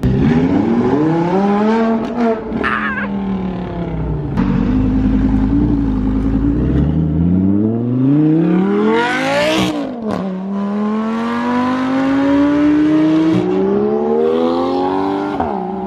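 Car engine revving and pulling hard through the gears. The pitch climbs in long sweeps and drops sharply at each shift, with a burst of crackling noise at a shift about ten seconds in.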